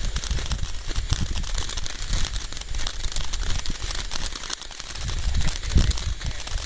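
Fireworks crackling: a dense run of small pops and crackles over low rumbling, with a louder low thump near the end.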